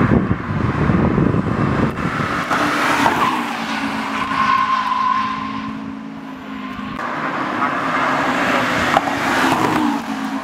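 Racing car engine running hard at high revs, pitch rising and falling through gear changes, with tyres squealing briefly in the middle.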